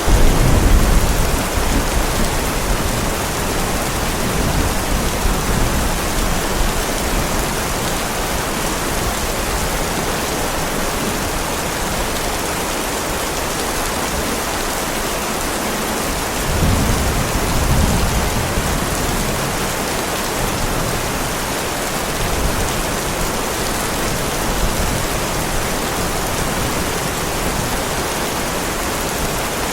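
Heavy rain falling steadily, with rolls of thunder rumbling at the start and again just past halfway through.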